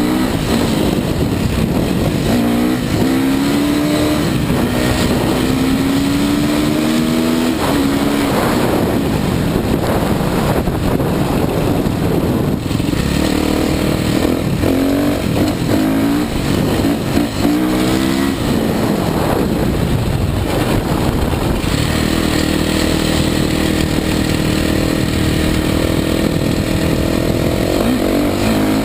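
Kawasaki KX450 motocross bike's single-cylinder four-stroke engine under hard riding: its pitch climbs and drops again and again as it is revved and shifted through the gears, then holds fairly steady for several seconds near the end.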